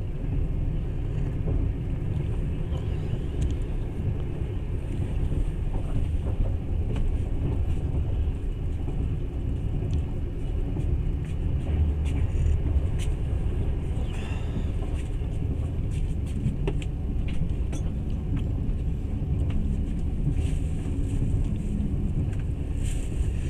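Passenger train running steadily, a low rumble heard from inside the carriage, with faint scattered clicks.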